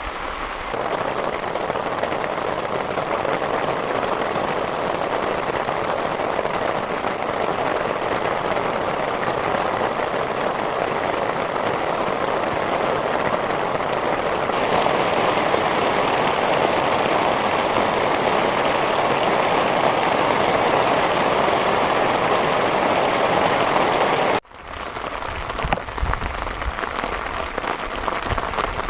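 Heavy rain falling steadily on a surface as a dense, even hiss. Near the end it cuts out abruptly for a moment and comes back with a lower rumble mixed in.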